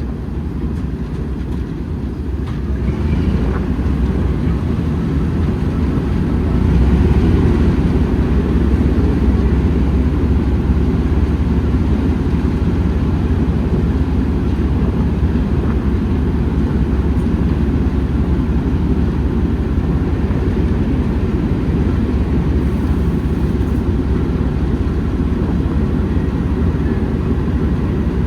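Train running, a steady low rumble that grows louder a few seconds in and then holds.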